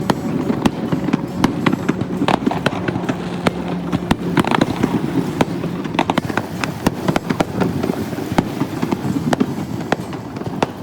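Aerial fireworks bursting in quick, irregular succession: a stream of sharp bangs and cracks, several a second, over a steady low background rumble.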